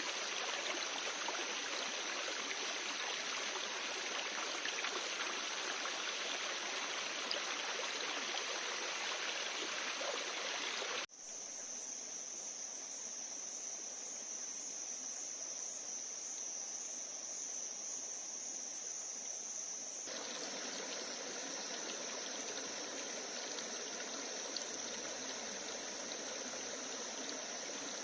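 Running stream water with a steady high-pitched insect drone from the forest. The sound cuts sharply about eleven seconds in; after the cut the insect tone stands out over quieter water, and the water grows louder again later.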